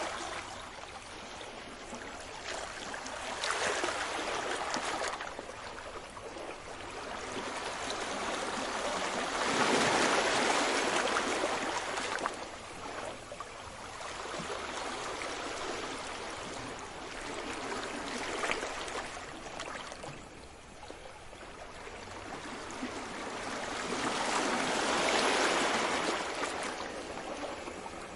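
Sea waves washing ashore, the surf swelling and fading every several seconds, loudest about ten seconds in and again near the end.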